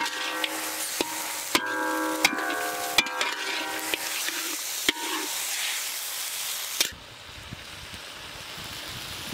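Chicken sizzling as it fries in a large iron wok, a long metal ladle stirring and scraping through it and knocking the pan about once a second so the metal rings. About seven seconds in the sizzle and knocking stop and it goes quieter.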